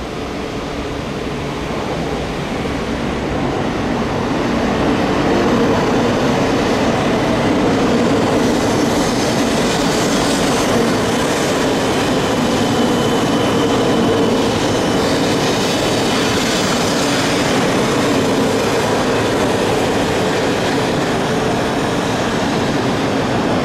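E2 series Shinkansen electric train arriving at a platform and running slowly past to stop. The steady rumble of wheels and running gear builds over the first few seconds and then holds, with a faint high whine in the middle.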